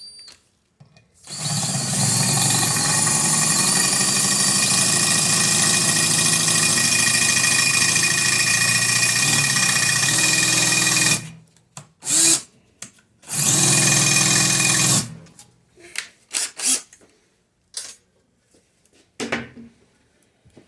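Power drill with a small bit boring into a stuck brake rotor retaining screw. It runs steadily for about ten seconds, then gives two short bursts, and a few light clicks and taps follow.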